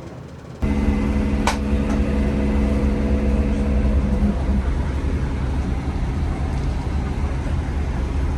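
Diesel multiple unit's engine running with a steady low rumble and a hum, heard from inside the carriage. There is one sharp knock about a second and a half in, and the hum fades out about four seconds in.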